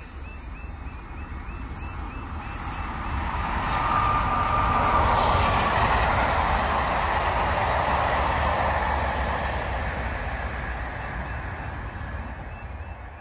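Train passing at speed: a rumble and rush of wheels on rail that swells to a peak about four seconds in, holds for several seconds, then fades away.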